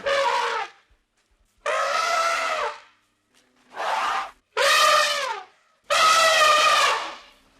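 An animal calling: five loud, drawn-out, pitched calls, each about half a second to a second long, with short pauses between.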